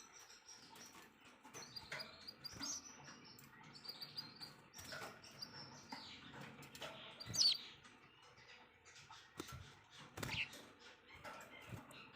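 Songbird chirping in a string of short quick notes and sharp clicks mixed with whistled glides, with one louder high whistled call about seven seconds in.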